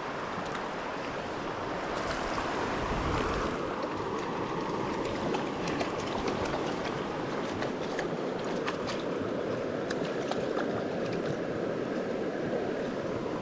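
Steady rush of a small mountain creek's flowing water and cascades.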